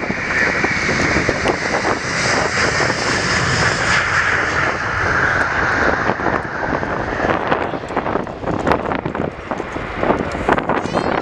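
Airbus A330-300 jet engines roaring at takeoff power, with a whine that sinks slightly in pitch as the airliner goes past and away. Wind buffets the microphone.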